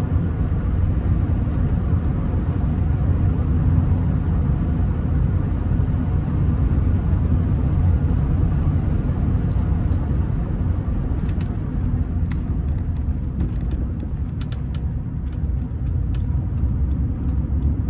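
Steady low rumble of road and engine noise inside the cabin of a Rolls-Royce Silver Spirit III on the move. Scattered light clicks and ticks come in over the last several seconds.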